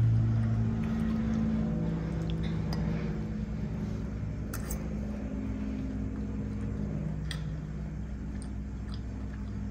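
A person chewing a mouthful of lasagna, with a couple of small mouth clicks, over soft background music with sustained notes.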